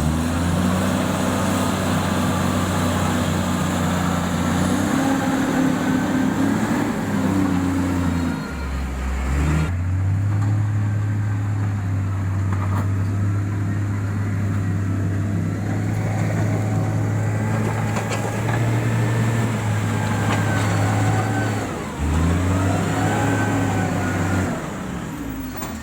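Diesel engine of heavy road-building equipment running under load. Its pitch holds steady and then shifts in steps about a third of the way in and again near the end, as the engine speed changes.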